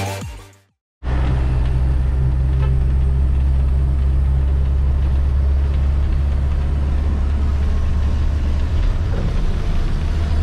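A vehicle's engine and road noise: a steady, loud low rumble and hum that starts abruptly about a second in, just after the tail of electronic music ends.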